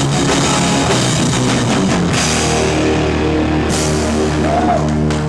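Live rock band playing loud with drum kit, electric guitars and bass; about two seconds in the drumming thins out and a held chord and bass note ring on as the song winds down.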